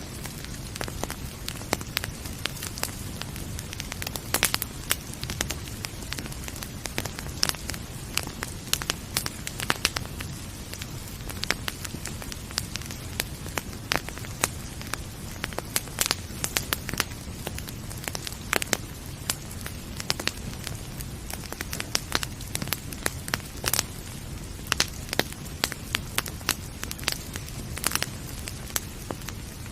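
Wood fire in a fireplace crackling, with many irregular sharp pops and snaps over a steady low rumble of the burning fire.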